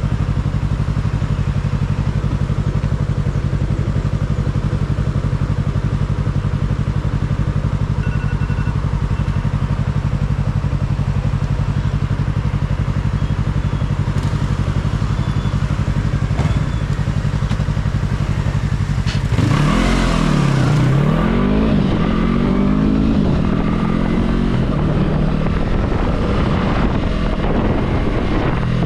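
Yamaha R3 motorcycle's parallel-twin engine running at a steady pitch, then about two-thirds of the way in its pitch swings down and up as the engine is revved through changes in speed, with a brief rush of wind noise.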